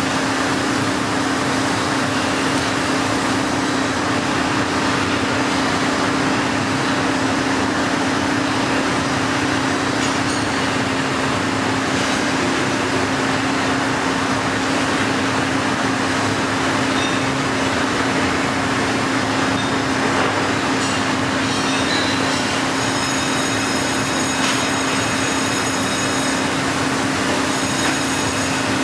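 Heller CNC 4-roll hydraulic plate bending roll running: a steady hum over loud, even machine noise, with a few faint ticks in the second half.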